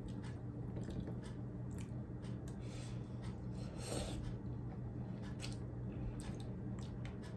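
A person chewing food with wet mouth sounds: scattered short clicks and smacks over a steady low hum.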